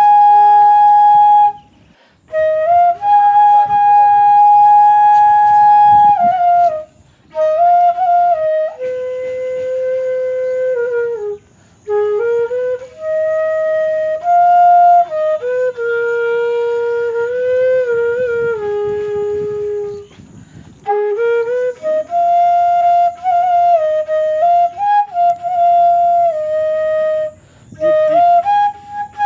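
Slow solo flute melody: long held notes with bends and ornaments, played in phrases broken by short breath pauses.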